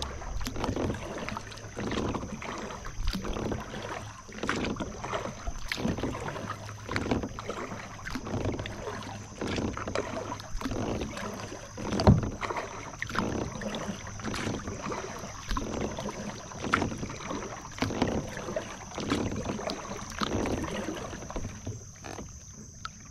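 Kayak paddle strokes dipping and splashing in the water, about one a second, with drips between them and one louder knock about halfway through. A steady high hiss runs underneath. The strokes stop shortly before the end.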